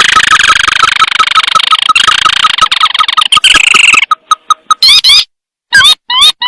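Recorded calls of a crake (tikusan sawah) played as a lure: a dense, rapid churring trill for about four seconds, then several short separate calls with quick looping, rising whistles near the end.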